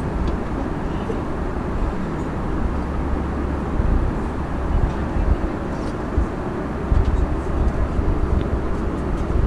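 Steady cabin noise of an Airbus A340-300 airliner in flight: a constant rush of airflow and engine drone over a deep rumble.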